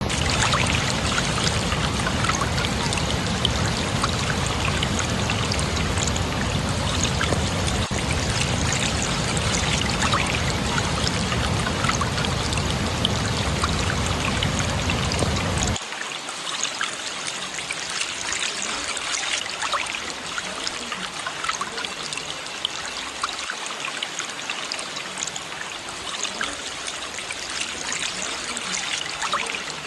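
Running water rushing and splashing steadily. About halfway through, the deep rumble drops away and the water sounds lighter and splashier.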